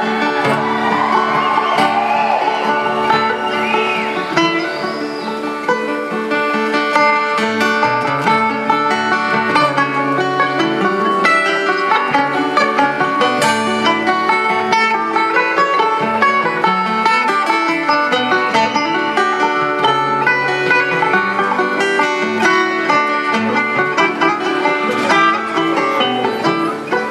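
Live acoustic band playing an instrumental break of a folk song, with banjo and guitar picking.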